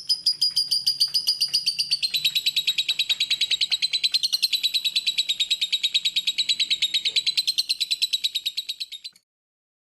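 Lovebird chirping: a fast, unbroken string of shrill chirps, about ten a second, kept up for about nine seconds before stopping abruptly.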